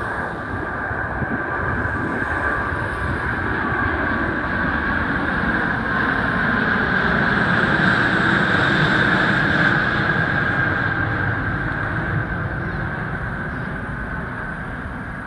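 Jet airliner's engines at takeoff power: a steady roar with a whine above it, swelling to its loudest about eight to ten seconds in, then fading as the plane moves away.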